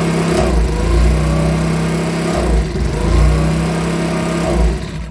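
Makita BHX2500 leaf blower's 24.5 cc four-stroke engine running on a test run after repair, its speed dipping and picking back up about every two seconds. The sound falls away at the very end.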